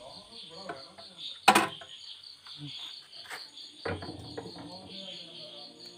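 Crickets chirping in a steady pulsing trill, about five chirps a second, with one sharp knock about a second and a half in. Low sustained music notes come in about four seconds in.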